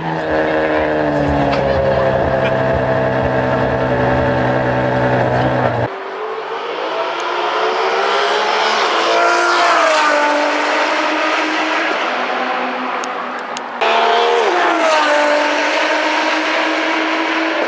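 Ferrari 599 SA Aperta's V12 idling just after starting, its pitch settling and then holding. After a cut, the car accelerates along a race track: the engine pitch rises, then falls away as it passes. After a second cut, the engine is loud again, its pitch dropping and then running steadily.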